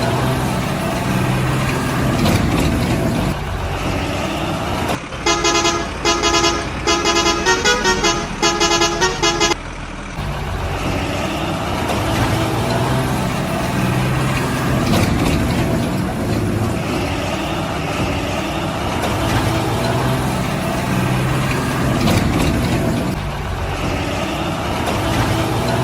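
Truck engine running steadily, with a horn sounding a series of short blasts for about four seconds, starting about five seconds in; some of the blasts shift in pitch.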